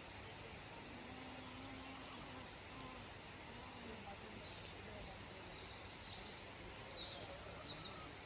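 Small birds chirping, scattered short calls over a steady hiss of background noise.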